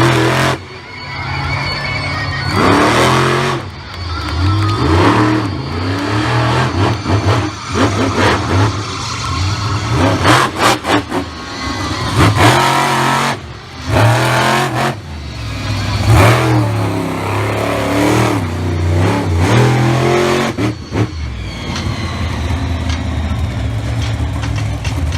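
Monster truck engine revving hard in repeated bursts, its pitch surging up and falling back again and again, with a few sharp bangs; it settles to a steadier running over the last few seconds.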